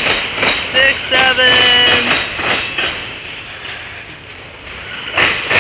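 Autorack freight cars of a CSX train rolling past, wheels clacking over rail joints about three times a second and thinning out after about three seconds. A short held pitched tone sounds about a second in.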